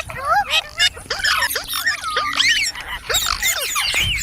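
Ringneck parrot chattering: a quick, continuous run of short chirps and squawks sweeping up and down in pitch.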